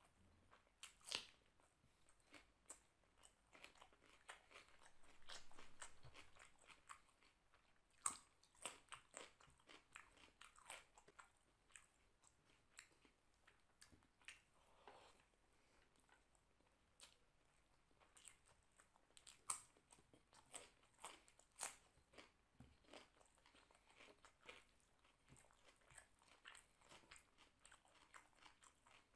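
Close-miked chewing and biting of a mouthful of rice and vegetable masala eaten by hand: a quiet, irregular string of short, sharp wet mouth clicks and smacks, with a few louder ones.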